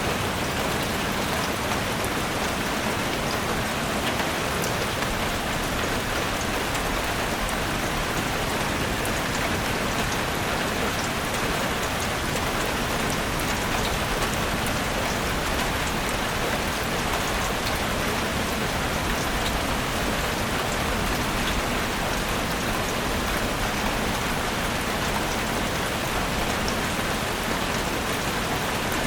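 Steady rain falling in a forest, an even hiss of rain with scattered individual drops pattering on surfaces.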